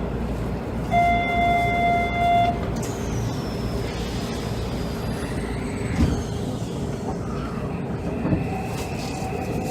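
Onboard running sound of a Hanshin 5700 series commuter train: a steady rumble throughout, with a steady horn-like note lasting about a second and a half about a second in, a thin falling whine after it, and two short knocks in the second half.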